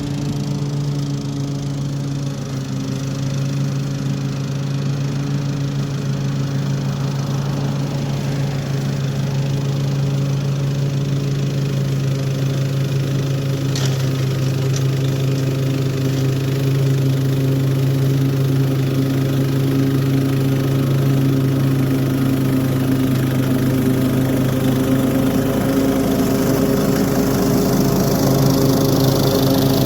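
Toro HDX 30-inch self-propelled mulching lawn mower running steadily while mowing, at an even engine pitch that grows slightly louder toward the end, with a faint brief tick about halfway through.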